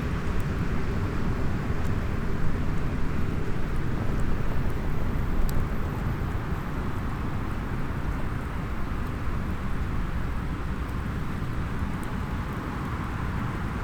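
Steady low outdoor background noise, with a few faint, sparse pops from a small wood campfire.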